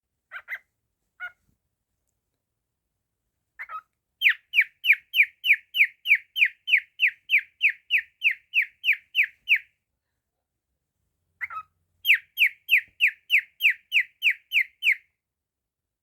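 Cockatiel calling in fast runs of short, downward-sliding chirps, about three a second: one run of roughly seventeen calls, then after a pause a second run of about ten. A few single chirps come before them.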